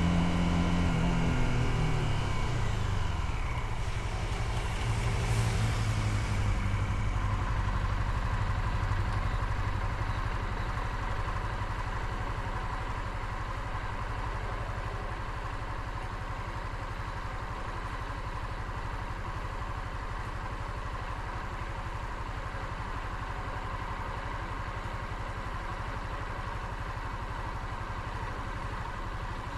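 Motorcycle engine whose pitch drops over the first three seconds as the revs fall, then settles into a steady low running, close to idle. A brief hiss passes about five seconds in.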